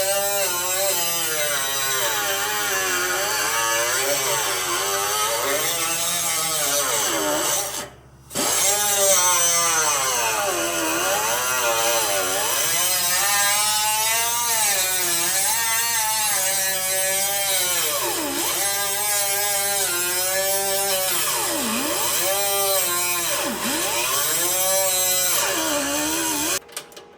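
Power tool working sheet metal, running continuously with its pitch dipping and recovering again and again as it bogs under load. It cuts out briefly about eight seconds in and stops abruptly near the end.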